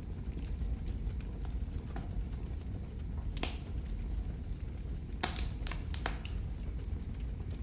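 Wood fire crackling in a fireplace: a steady low rumble of flames with scattered sharp pops, a cluster of several about two-thirds of the way through.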